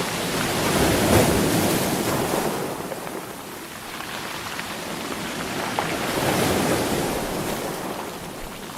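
Sea waves breaking and washing on the shore, two swells about five seconds apart, each rising and then fading.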